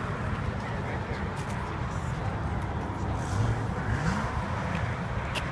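Steady outdoor background din with indistinct voices and a low rumble.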